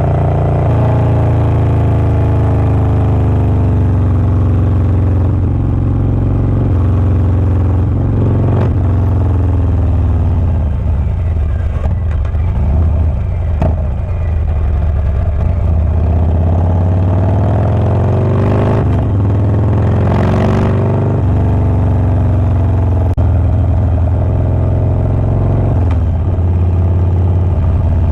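Harley-Davidson Low Rider S's Milwaukee-Eight 117 V-twin with a Wood Performance 777XE cam running loudly, its engine speed rising and falling repeatedly. A short rush of noise comes about two-thirds of the way through.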